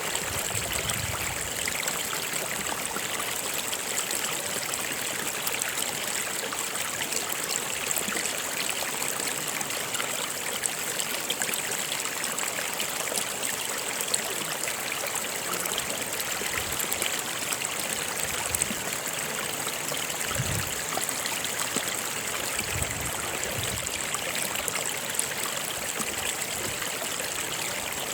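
A river flowing and trickling steadily, an even rush of water.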